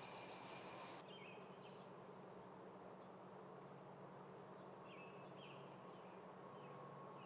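Near silence with a faint steady insect buzz, broken by a few short high chirps about a second in and again near five seconds.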